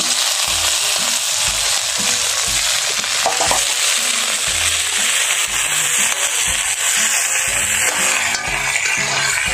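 Pieces of ginger-boiled malabanos fish frying in a pan of hot oil with sautéed garlic and onion, a steady hiss of sizzling as they are stirred.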